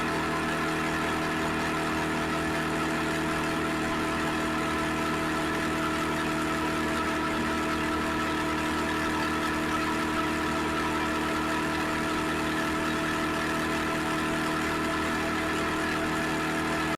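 Suzuki SV650X's 645 cc V-twin engine running steadily at a constant engine speed, with no revving.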